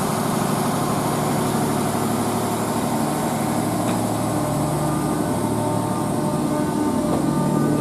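Class 769 Flex tri-mode multiple unit pulling slowly along the platform, its traction equipment giving a steady mechanical drone with a few held tones.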